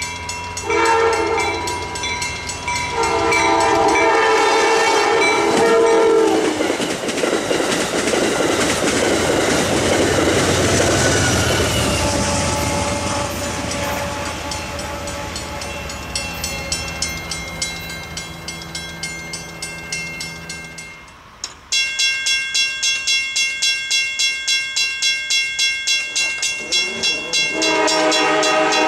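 Locomotive horn sounding two blasts, the second longer, then a train passing close with engine and wheel noise. After a sudden cut, a bell rings about twice a second, and the horn sounds again near the end.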